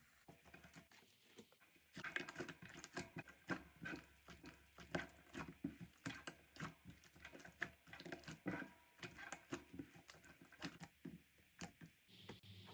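Slime being squished and pressed by hand: a string of irregular sticky clicks and small pops, sparse and faint at first, then busier and louder about two seconds in.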